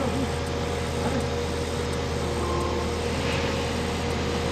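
Skid steer engine running steadily while it lifts a roof truss on its hydraulic jib, a constant low hum with a steady higher tone over it.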